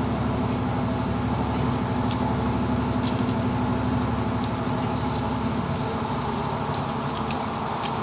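Diesel passenger train running along the line, heard from inside the carriage: a steady hum and rumble of engine and wheels on rail, with a few faint ticks.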